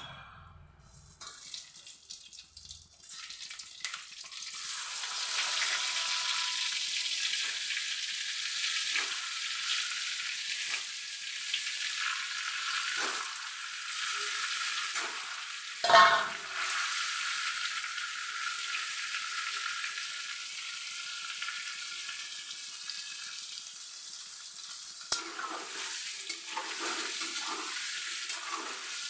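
Potato pieces frying in hot oil. The sizzling swells up a few seconds in and then runs on steadily, with a utensil knocking and scraping against the pan now and then, one knock loud about halfway through.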